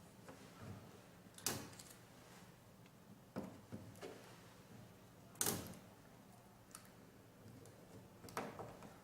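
Tape and transfer paper being handled while the paper is taped onto a mouse pad: four short, rasping bursts like tape being pulled and torn, with small handling ticks between.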